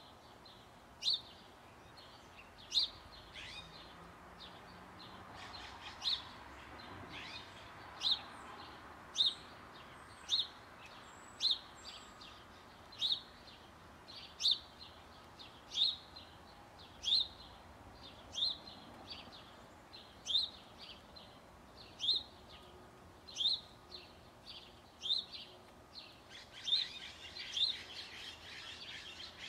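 A bird repeating one short, high, down-slurred chirp about every second and a half, with busier chirping near the end.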